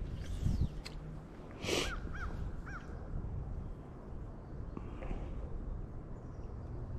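A bird gives three short, arched calls about two seconds in, over a low rumble of wind on the microphone.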